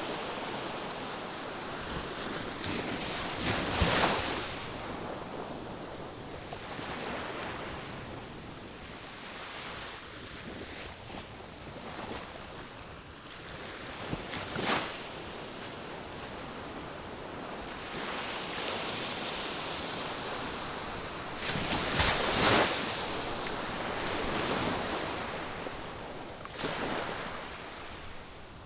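Ocean surf breaking on a sandy beach: a steady wash of waves, swelling louder about four times as bigger waves break.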